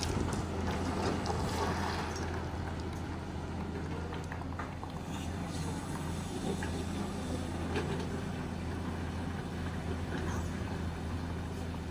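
Excavator's diesel engine running at a steady low drone, with scattered light knocks and scrapes.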